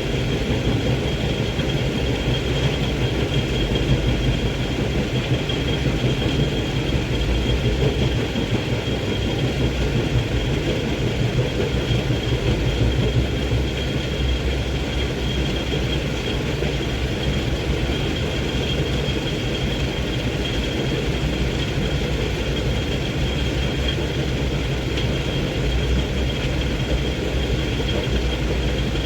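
Diesel engine of a fully loaded Hino 500 dump truck running steadily under load, a low rumble that holds even throughout, with a thin steady high whine above it.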